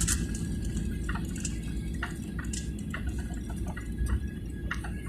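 Steady low rumble of an airliner cabin, with frequent small clicks and rattles over it.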